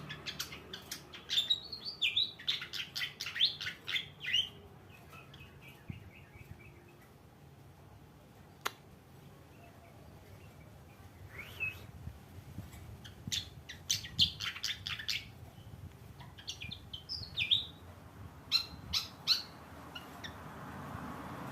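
Fantail flycatcher (sikatan kipas) singing in bursts of quick, high chirping phrases, with several pauses between the bursts.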